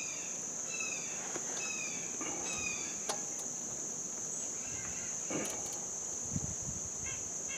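Steady high-pitched insect trilling, with a bird giving four short falling chirps in the first few seconds and a few faint clicks and knocks later on.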